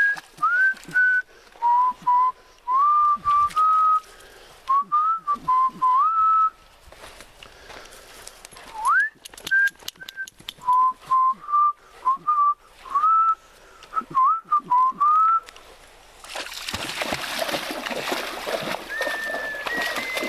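A person whistling a tune by mouth in short notes, sliding up into many of them. About three-quarters of the way through a loud steady rushing noise comes in, and the whistling carries on over it at a higher pitch.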